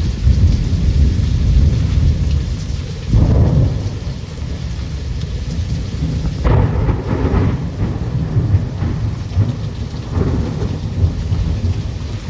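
Thunder rumbling over steady, heavy rain. Louder peals break in about three seconds in and again about halfway through, with a smaller one near the end.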